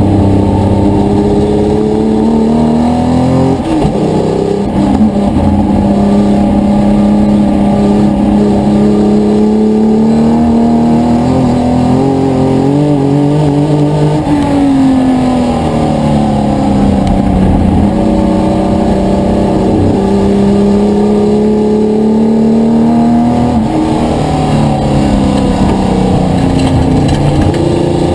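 Historic touring car's racing engine running hard and loud, its pitch climbing slowly and then dropping several times: about four seconds in, near the middle, and again toward the end.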